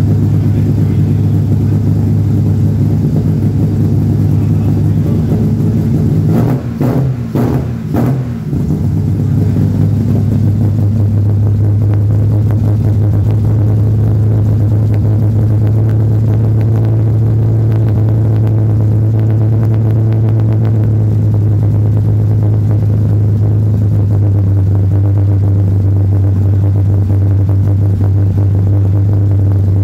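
Chevrolet Caravan Diplomata's alcohol-fuelled six-cylinder engine running steadily with a low, even rumble. About seven seconds in, the rumble briefly wavers and a few clicks come through.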